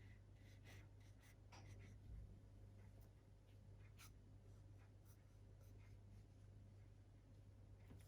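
Faint scratching strokes and light taps of drawing on smooth watercolour paper, scattered and irregular, over a low steady hum.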